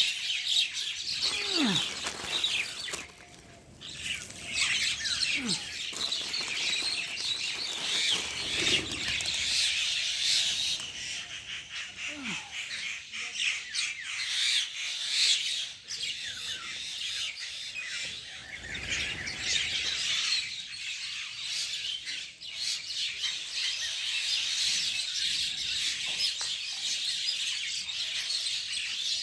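Pet birds chirping and twittering continuously in a dense, busy chatter, with a brief lull about three seconds in.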